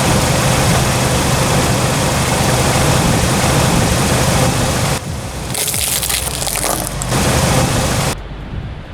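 Loud, steady noise of a Kia Sportage's engine and tyres close to the microphone, then a crackling crunch about five and a half to seven seconds in as the tyre rolls over an iPhone 6s and shatters its glass.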